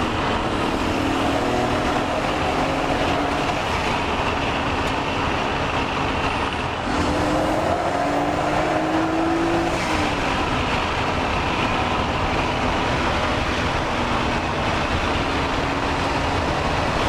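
Engine and road noise of a twin-turbo street car on the move, a 2.8-litre straight-six fitted with 3076 turbos. It runs steadily, with the engine pitch climbing for about three seconds near the middle and then falling away.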